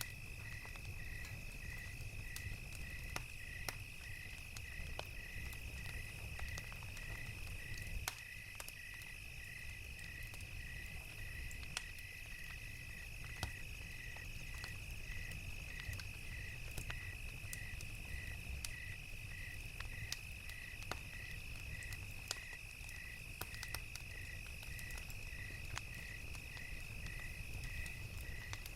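Crickets chirping in an even slow pulse, about one and a half chirps a second, over a steady high insect trill. Scattered sharp crackles and pops from a wood fire come through, over a low rumble.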